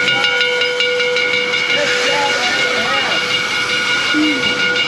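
Steam locomotive hissing steam loudly and steadily, with several steady whistling tones held over the hiss.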